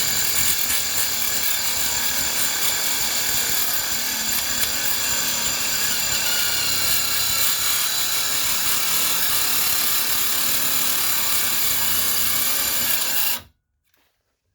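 Cordless angle grinder with a cutoff wheel cutting into a front suspension control arm: a steady high whine over a grinding hiss. It shuts off abruptly near the end.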